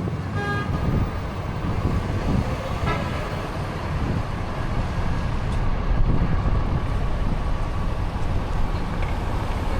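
Steady low rumble of downtown street traffic, with a brief horn toot about half a second in.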